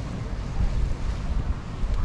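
Wind buffeting the microphone in uneven low rumbles, over the steady wash of surf on a sandy beach.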